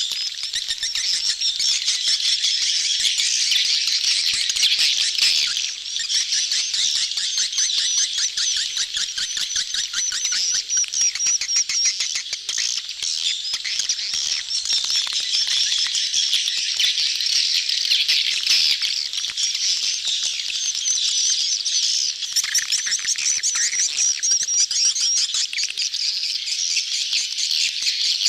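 A dense crowd of swiftlets twittering and chirping without a break, many rapid clicking calls overlapping: a swiftlet lure recording of a colony in breeding-season chatter, used to draw swiftlets into a nesting house.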